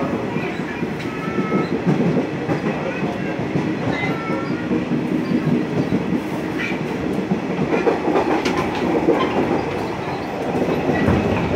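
Electric commuter train running, heard from inside the carriage: a steady rumble of wheels on rail as it pulls away from a station, with a few sharp clacks over rail joints in the second half.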